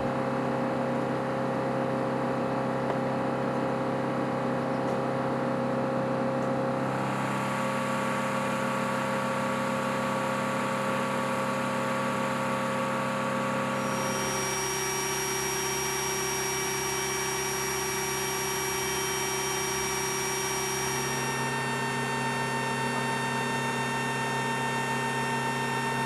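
Steady machinery hum with a high whine, made of fixed tones that shift abruptly about every seven seconds.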